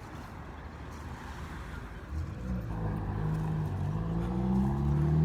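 Car engine accelerating: a low rumble, then from about two seconds in a steady rise in pitch and loudness as the engine climbs through the revs.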